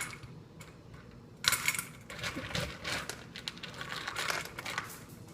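Dog food and pieces of egg being scooped and dropped into a dog's bowl: a run of light clicks and rattles that starts about a second and a half in.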